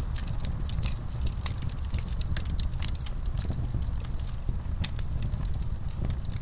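Wood fire burning in a fireplace, crackling and popping with many irregular sharp snaps over a low, steady rumble of the flames.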